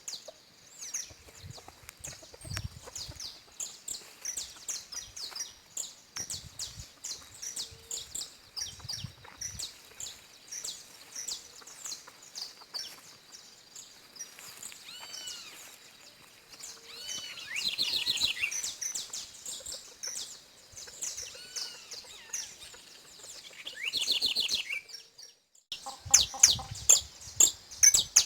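Saffron finches (canário-da-terra) chirping and singing, with many short high notes throughout and louder trilled phrases about two-thirds of the way in and again near 24 seconds. A brief near-silent dip comes near the end, then louder chirping follows.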